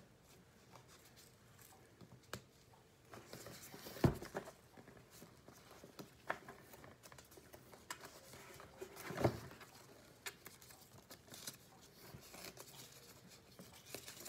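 Faint rustling and crinkling as the backing is peeled from a sterile IV dressing and the dressing is handled, with two knocks about four and nine seconds in.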